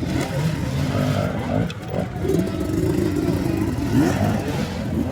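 Several motocross bikes running on the track at once, their engines revving up and down at different pitches. One bike holds a steady high rev from about two seconds in, and another revs up sharply near four seconds.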